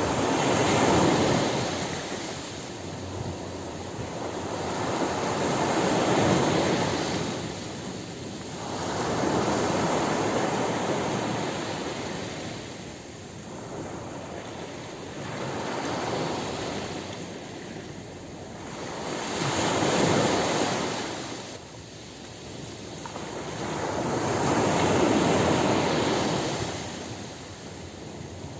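Ocean surf breaking on a beach: waves come in and wash out in a slow, even rhythm, about six surges, each rising to a hissing peak and falling away every four to five seconds.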